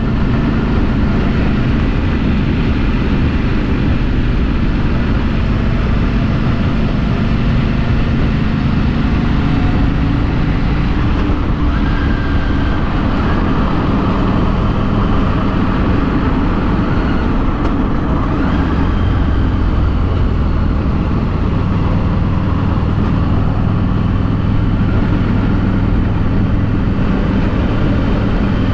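Harley-Davidson Street 500's liquid-cooled V-twin running under way through the stock exhaust, its pitch shifting slightly a couple of times.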